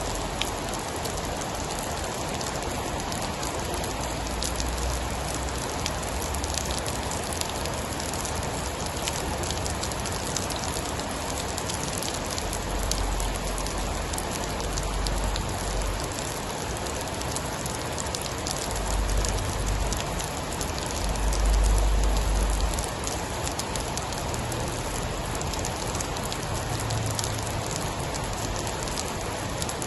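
Steady heavy rain pattering on a surface, with many fine drop ticks. Deep low rumbles swell and fade several times, the loudest about three-quarters of the way through.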